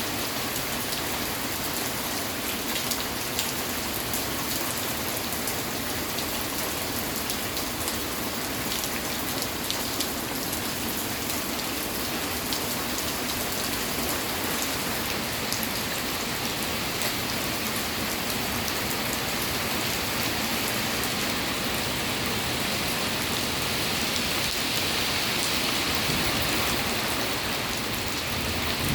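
Steady rainfall with individual drops pattering on surfaces, swelling slightly a little before the end.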